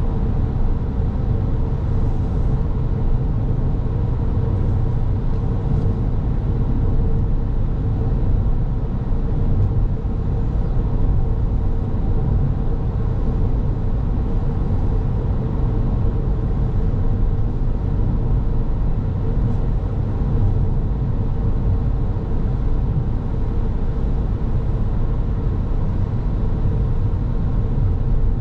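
Car driving at a steady pace: continuous tyre and engine noise as a low rumble, with a faint steady hum above it.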